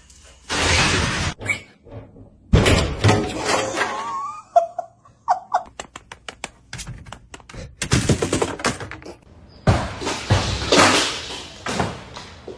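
Several loud thuds and rattles from a door being banged and pushed, with a quick run of sharp clicks between them.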